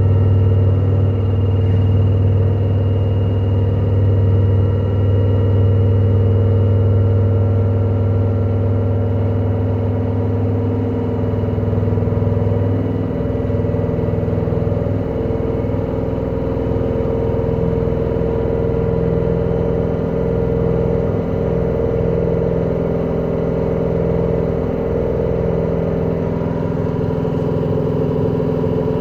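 LG direct-drive washing machine on its spin cycle, the drum turning at speed with a loud, steady mechanical hum and whine. This is the extreme spin noise the machine is faulted for. The deep hum eases a little about halfway through.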